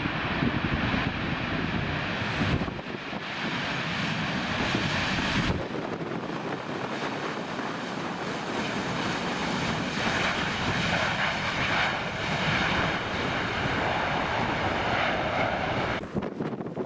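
Airliner jet engines running loud as an aircraft passes, with gusty wind rumbling on the microphone. The engine noise grows stronger and higher in the later part, then cuts off abruptly near the end.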